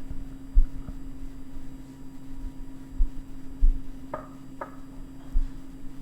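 Kitchen handling sounds: several dull thumps of things being set down and two quick light clinks just past the middle, over a steady low hum.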